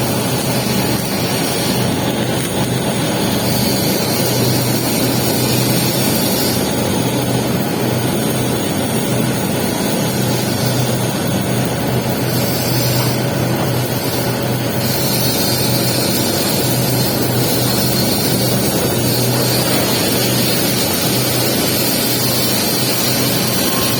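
Steady hissing, crackling noise of a stick-welding arc laying a capping pass on pipe, with a low steady hum beneath.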